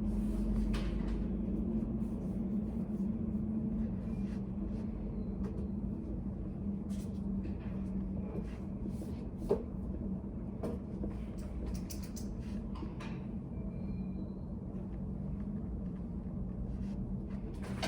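Study cafe room ambience: a steady low hum with scattered small clicks and taps, and one sharper click about halfway through.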